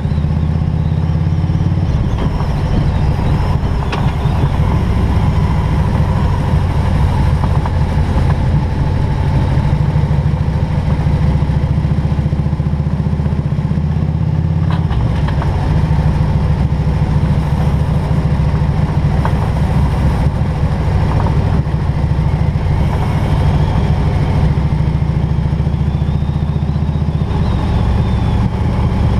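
Harley-Davidson Road King's V-twin engine running loud and steady under way, its low note shifting a few times.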